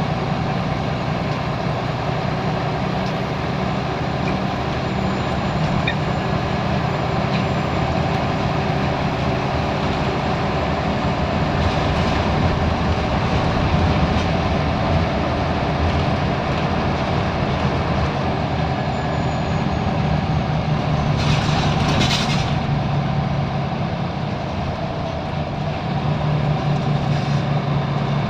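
Scania L94UB bus diesel engine running under way, heard on board, with a short hiss of released air about three-quarters of the way through. Near the end the engine settles to a steady, even note.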